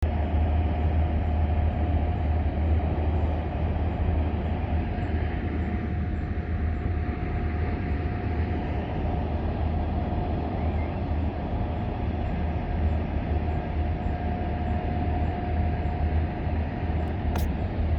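EMD SD40-series diesel locomotives running: a steady deep rumble with a steady whine held over it.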